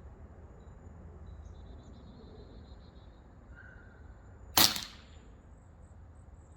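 A single shot from a Gauntlet PCP air rifle: one sharp crack about four and a half seconds in, with a brief tail.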